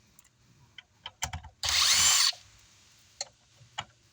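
Power drill spinning in one short burst of well under a second, backing a screw out of an amplifier's top cover, its motor whine bending in pitch. A few sharp clicks come just before and after.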